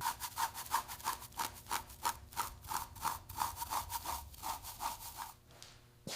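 Quick back-and-forth rubbing or scraping strokes by hand on a surface, about three a second, stopping about five seconds in.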